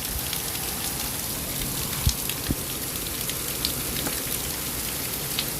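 Hail falling steadily: a dense patter of small stones striking surfaces, with many sharp clicks and two heavier knocks about two seconds in.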